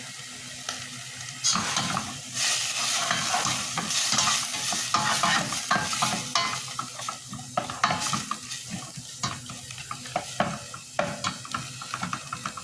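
Chicken sizzling in a pan as it is stirred, with a utensil clinking and scraping against the pan. The sizzle grows louder about a second and a half in.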